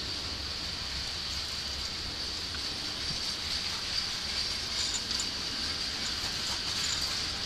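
Freight train of covered grain hopper cars rolling past: a steady rumble and hiss of steel wheels on the rails.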